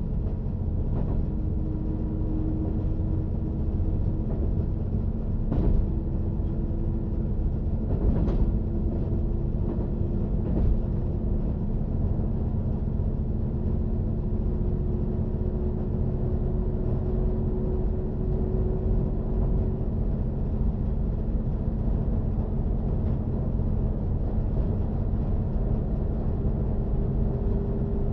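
Diesel multiple unit running at speed: a steady low rumble of the train on the track, with a faint tone that climbs slowly in pitch. A few sharp knocks come through in the first half, the loudest about eight seconds in.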